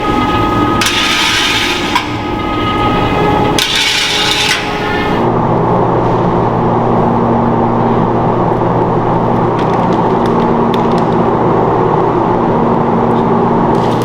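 Food-factory processing machinery running. It starts with two short bursts of rasping, hissing noise, and from about five seconds in gives way to a steady, continuous machine hum.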